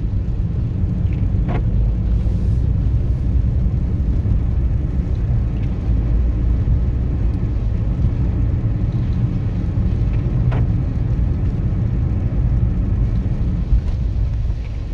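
Steady low rumble of a car being driven, engine and tyre noise heard from inside the cabin, with two faint clicks about a second and a half in and again about ten seconds in.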